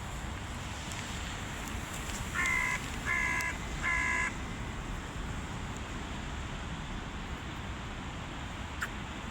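Hooded crow cawing three times in quick succession, each caw short and harsh, about two seconds in, over a steady low background rumble.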